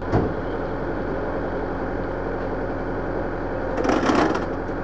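An engine running steadily at idle, with a louder burst of noise about four seconds in.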